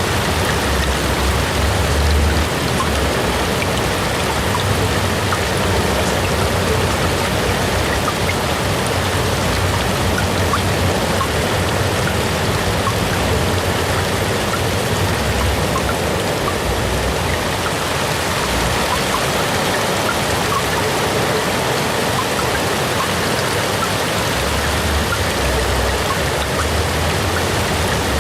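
AI-generated rain sound: steady rain, an even hiss flecked with small drop ticks, over a low rumble that swells and fades.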